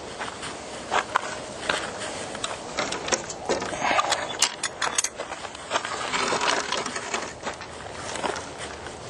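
Irregular clicks, knocks and crunching rustles close to the microphone, busiest in the middle few seconds.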